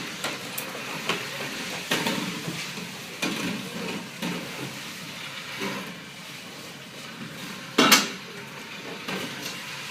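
A series of clattering knocks of hard objects being moved and set down, about one a second, with one much louder bang about eight seconds in.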